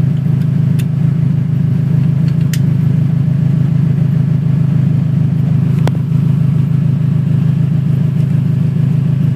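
Toyota Camry race car's engine running loudly at a steady idle, with a few light clicks over it.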